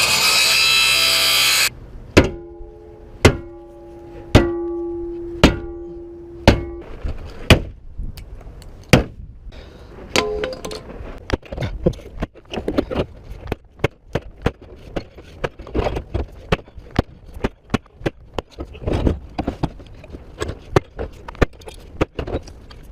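Tools working on a car's metal body: a harsh power-tool burst of about two seconds, then five sharp strikes about a second apart that each leave a ringing metallic tone, then many irregular knocks and clicks of prying and tapping.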